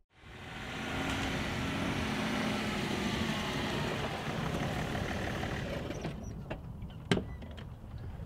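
A car running, a steady rushing sound that eases off about six seconds in, followed by a few sharp clicks, the loudest about a second later.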